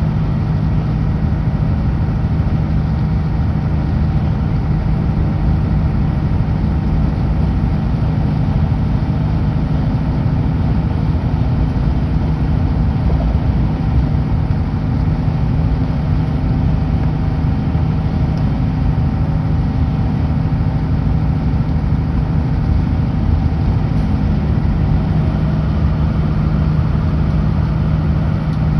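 Kenworth W900L semi truck's diesel engine running steadily at highway speed: a constant, even engine hum with no change in pitch or level.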